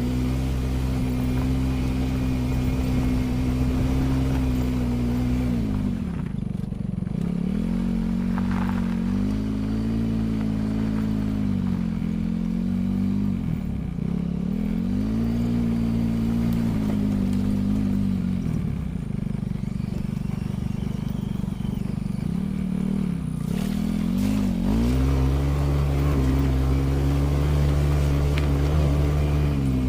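Vehicle engine running steadily, its pitch dipping and climbing again several times as it slows and picks up speed.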